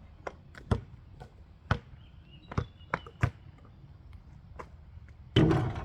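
Basketball bouncing on a hard court: a string of separate, unevenly spaced thumps, with a louder rushing burst of noise near the end.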